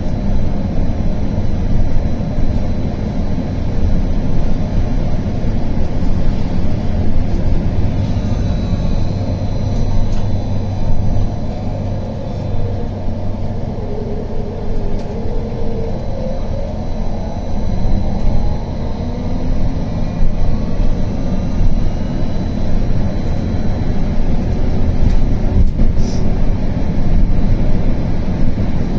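BKM-32100D trolleybus under way, heard from inside: a steady road and running-gear rumble, with the electric traction drive's whine falling in pitch as it slows, then rising again as it picks up speed about halfway through.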